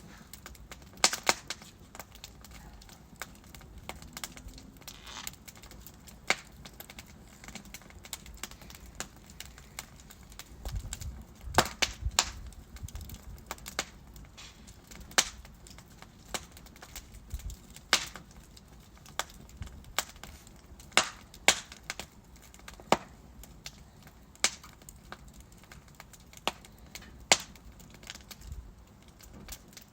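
Logs burning in a wood fireplace, crackling with irregular sharp pops every few seconds over a low, steady hiss of flame.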